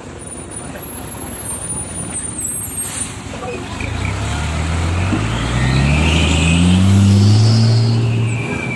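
Hino 500 truck with a loud 'cung' modified exhaust, the engine note rising in pitch and growing louder over the last few seconds, loudest about seven seconds in.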